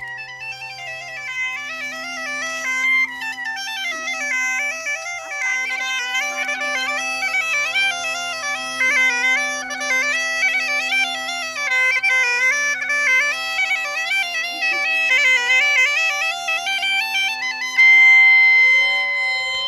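Bagpipe playing a lively tune on the chanter over a steady low drone. Near the end the tune stops on a loud, held high note.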